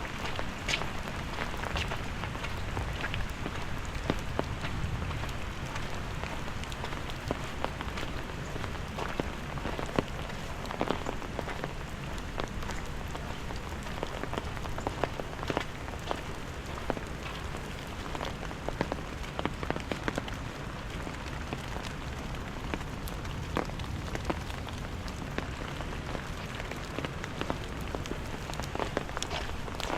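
Steady rain falling, with many sharp raindrop ticks scattered through it.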